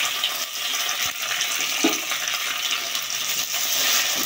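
Sliced tomatoes sizzling in hot oil with browned onions in an aluminium pot, stirred with a spoon, with a couple of short knocks about one and two seconds in.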